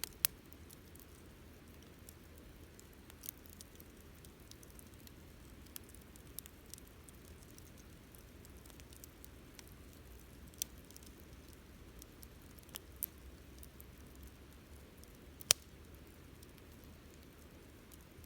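Wood campfire crackling quietly, with scattered pops and clicks; two sharp pops stand out, one just after the start and one about fifteen seconds in.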